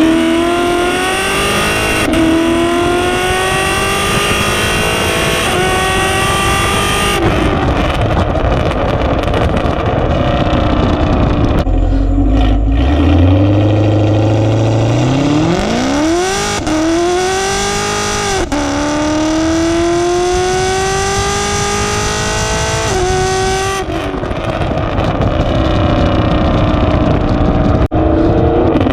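6th-gen Camaro SS V8 running through 2-inch long-tube headers, an X-pipe and the factory NPP exhaust, accelerating through the gears. The pitch climbs and drops back at each upshift, about six times, with a slow pull up from low revs about halfway through.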